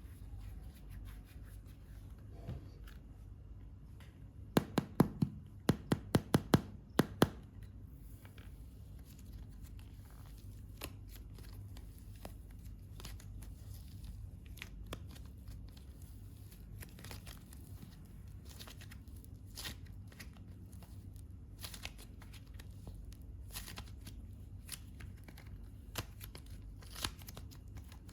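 Hands working modelling clay, with soft crinkly rustling and scattered small clicks. About five seconds in comes a quick run of roughly ten sharp taps over two or three seconds.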